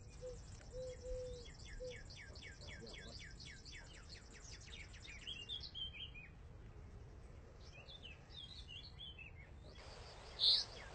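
Songbird singing outdoors: a fast trill of high, quickly falling notes lasting about four seconds, followed by scattered chirps, over a faint steady background hiss.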